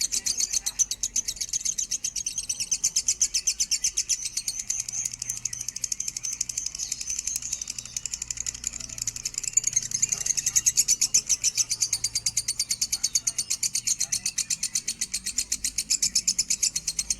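Lovebird chattering in one long unbroken run of rapid, high-pitched chirps, many a second, without pause.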